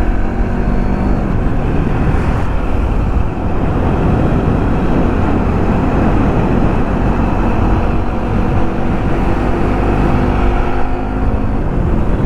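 Motorcycle running steadily along the road: a constant engine hum mixed with heavy wind and road noise.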